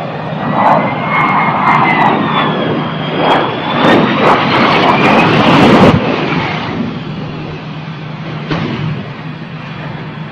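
Jet aircraft engines running loud, with a high turbine whine that slides up and down in pitch over a dense roar. The noise drops off sharply about six seconds in, leaving a lower, steadier hum.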